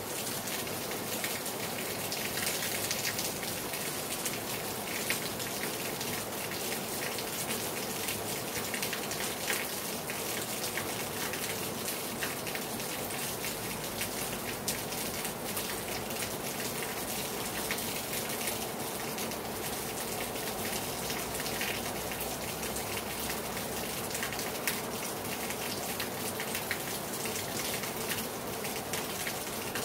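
Heavy rain falling steadily onto a terrace, a dense hiss of rain with many individual drops pattering and splashing on hard surfaces.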